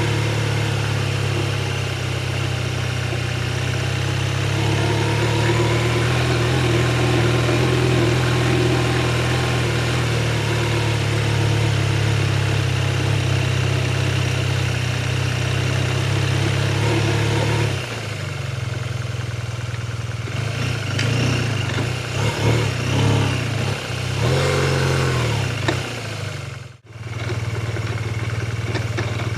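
BMW R 12 G/S motorcycle's boxer twin engine running at a steady speed, then for several seconds the note becomes uneven, rising and falling as the engine is revved. The sound breaks off sharply for a moment about 27 seconds in, then the steady running returns.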